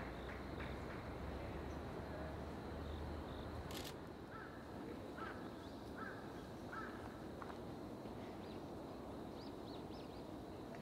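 A bird calls about five times in quick succession midway through, over steady outdoor background noise. A single sharp click comes just before the calls.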